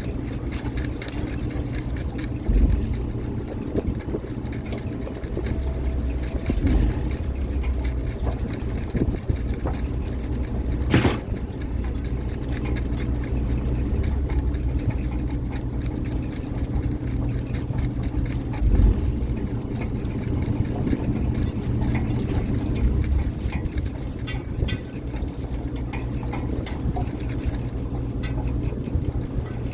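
Fishing boat's engine running steadily with a low hum, with occasional knocks and thumps on deck, one sharp knock about eleven seconds in.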